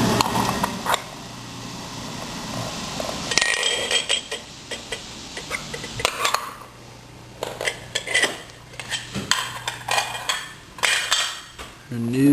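Toy dishes and utensils from a child's play kitchen clattering and clinking as they are handled, in irregular knocks and clicks.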